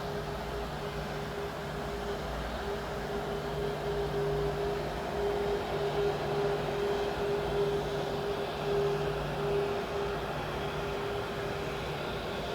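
Jet noise from a Boeing 777F landing: a steady rumble with a constant hum that swells a little partway through, then eases.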